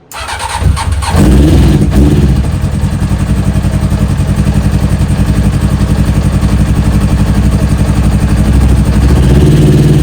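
1997 Honda CBR900RR Fireblade's inline-four engine starting up, catching about a second in and then running steadily while still cold, after three years without being started.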